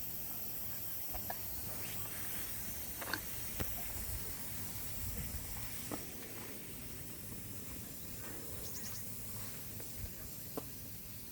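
Countryside ambience: a steady high hiss with a low rumble beneath, broken by scattered small clicks and snaps, and a brief high flutter about nine seconds in.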